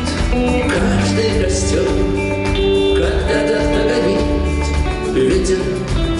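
Live rock band playing, with guitar among the instruments.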